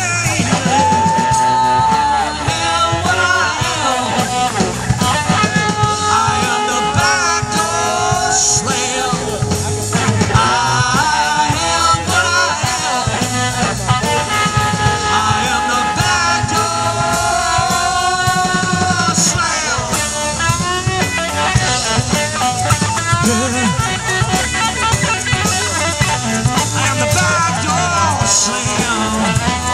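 Live blues-rock band playing an instrumental guitar solo: a lead guitar plays bending, sliding melodic lines over bass and a steady drum-kit beat.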